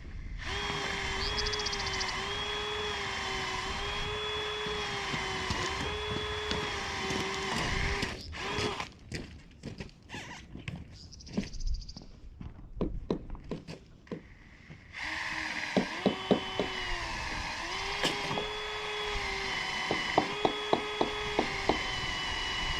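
Power drill driving screws into metal roofing, its motor running in two long spells with the pitch dipping under load. Between and during the spells come sharp clicks and knocks.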